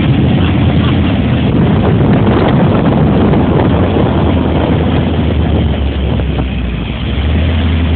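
Motorboat engine running steadily, with wind buffeting the microphone. The sound eases slightly about six seconds in and picks up again near the end.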